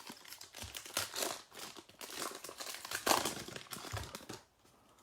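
Foil wrapper of a football trading-card pack being torn open and crinkled, an irregular crackling that dies down about four and a half seconds in.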